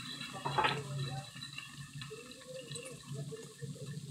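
Fish pieces and vegetables sizzling in oil in a pan over a high gas flame, a steady frying hiss. A single short knock about half a second in.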